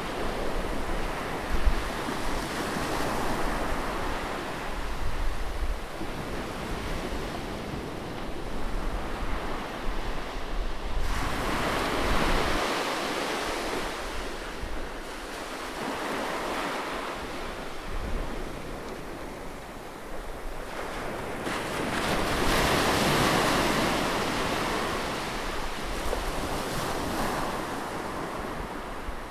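Sea waves washing up on a shore close by, swelling and receding, with larger surges about eleven seconds in and again about twenty-two seconds in. A low rumble of wind on the microphone runs underneath.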